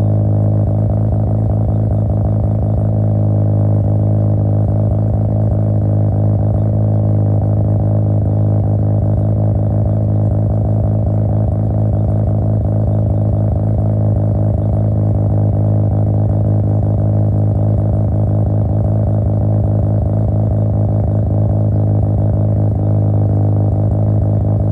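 Mazda RX-7 FD's 13B-REW twin-rotor rotary engine running at a steady speed through its exhaust, a constant, even drone with no rise or fall in revs.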